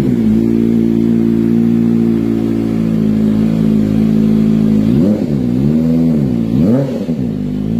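Kawasaki ZX-25R's 250 cc inline-four running through an aftermarket Arrow exhaust. It idles steadily for about five seconds, then is revved twice in quick blips, the pitch rising and falling each time.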